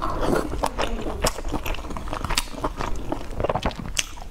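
Close-up chewing of soft boiled dumplings: wet mouth sounds with many short, irregular smacks and clicks.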